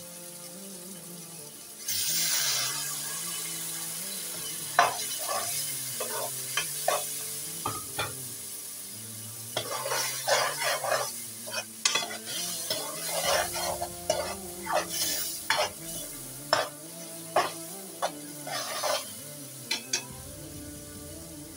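Onions, tomatoes and green chillies frying with ground spices in oil in a metal pot, sizzling from about two seconds in, as the spice masala is cooked down. A flat metal spatula stirs and scrapes against the pot, giving repeated clicks and scrapes through most of the rest.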